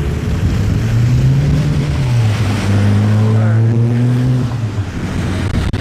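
A motor vehicle's engine running close by, a steady low hum that drops slightly in pitch about two seconds in, over wind noise on the microphone.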